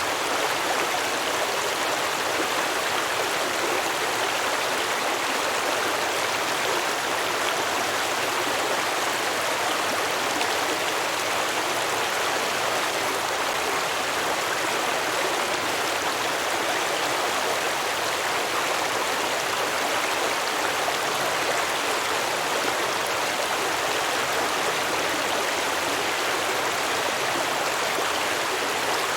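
Small stream flowing and babbling over rocks: a steady, unbroken rush of water.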